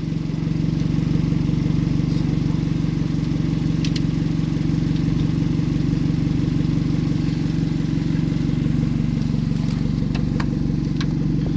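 Car engine idling steadily after a hard start with a jump pack; one of the men is not satisfied with how it runs.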